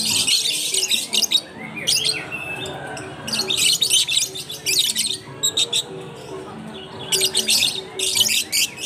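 A crowd of caged lovebirds chattering and squawking in shrill, harsh clusters, each lasting up to about a second, with short lulls between.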